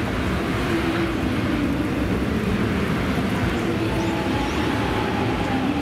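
Alstom X'trapolis electric suburban train passing directly beneath: a steady rumble of wheels on rail with a low hum.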